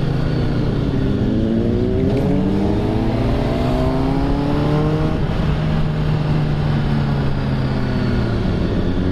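Motorcycle engine accelerating, its pitch rising over several seconds, then holding steady and rising again near the end, with a heavy low wind rumble.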